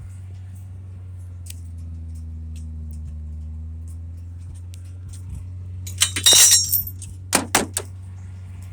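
Sharp metallic clinking and rattling, a dense cluster about six seconds in and three more clinks a second later, over the steady low hum of an idling engine.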